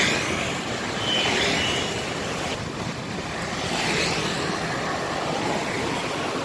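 Traffic on a wet road in the rain: a steady hiss of rain and tyres with a bus engine running underneath.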